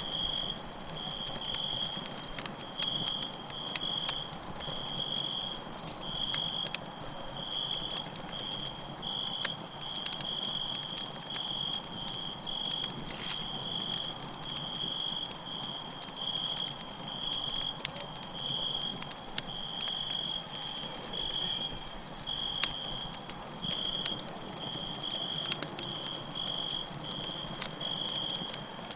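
Campfire crackling and popping with sharp irregular snaps over a soft hiss of burning wood, while crickets chirp steadily in a high-pitched run, a little under two chirps a second.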